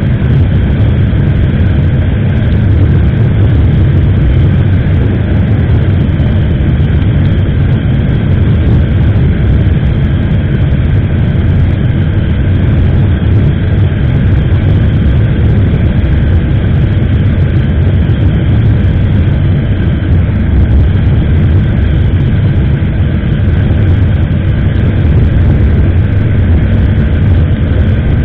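Motorcycle on the move, heard through an SJCAM action camera's microphone: a steady, loud rush of wind and road noise with the engine running underneath, unchanging throughout.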